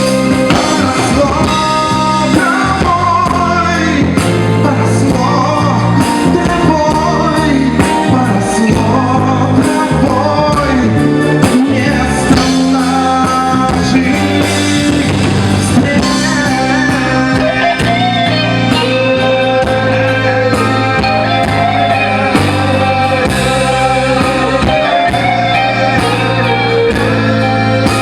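Pop-rock band performing a song: singing over electric guitar, a steady bass line and a regular beat.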